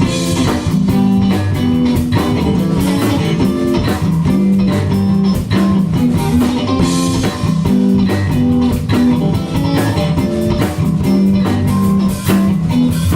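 A live rock band playing an instrumental passage between sung lines: electric guitar, bass guitar and a drum kit keeping a steady beat.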